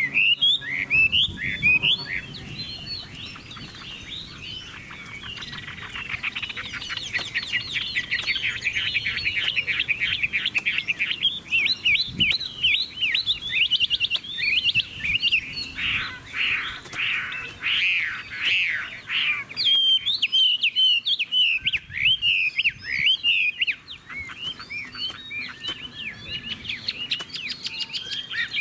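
Chinese hwamei singing a long, continuous, varied song: fast rapid trills, then loud slurred phrases and sweeping whistled notes.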